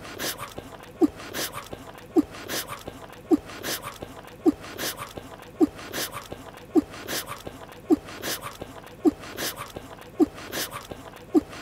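Cartoon chewing sound effect of a mouthful of pie being chewed, repeating in an even loop. A short squeaky blip comes about once a second, the loudest part, with soft wet chewing noises between.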